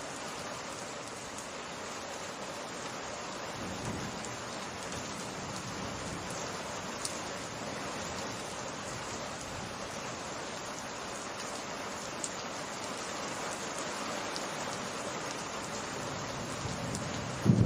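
Steady rain falling and pattering on surfaces in a summer rainstorm. A low rumble of thunder starts near the end.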